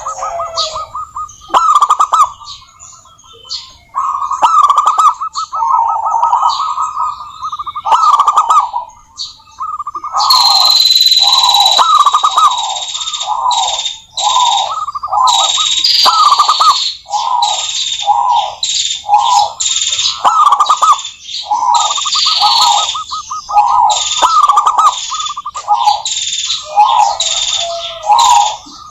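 Zebra doves (perkutut) cooing: repeated phrases of quick staccato notes running into a longer coo, one after another. From about ten seconds in, higher chirps and short falling whistles from other birds sound behind them.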